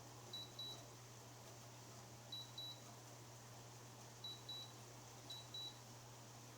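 Four pairs of short, high electronic beeps from the LG LWHD8000RY6 window air conditioner's controls, spaced about one to two seconds apart, over a faint steady low hum.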